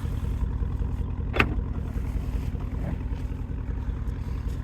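2005 Porsche Cayenne Turbo's twin-turbo V8, secondary catalytic converters deleted, idling with a steady low exhaust rumble. One brief sharp click about a second and a half in.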